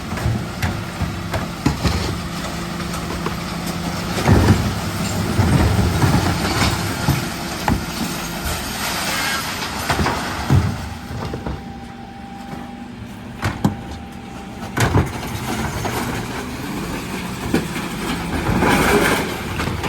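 Refuse lorry running with a steady engine hum, with knocks and clatters now and then.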